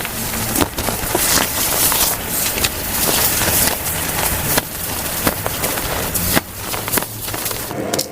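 Reformed gym chalk cakes being crushed, a dense run of crunchy crackles and sharp snaps, played back at double speed.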